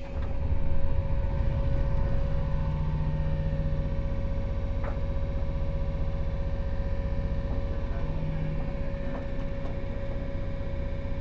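Running sound heard inside the motor car of a JR 115 series electric train: a low rumble from its MT54-type traction motors, gears and wheels that swells quickly in the first second, then holds steady with a constant hum and a fainter tone that comes and goes.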